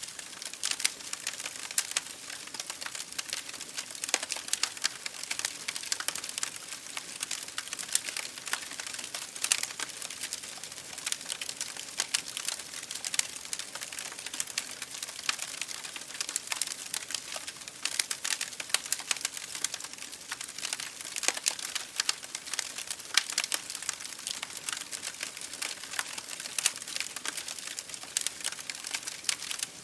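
Campfire crackling: dense, irregular snaps and pops over a steady rush of babbling creek water.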